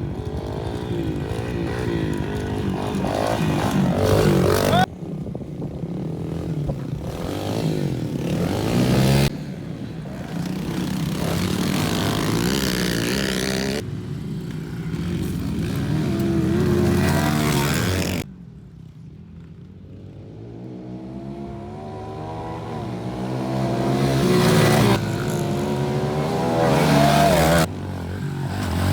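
Pit bike engines revving up and down as the small dirt bikes are ridden, the engine pitch rising and falling with the throttle, with abrupt jumps in loudness several times between passes.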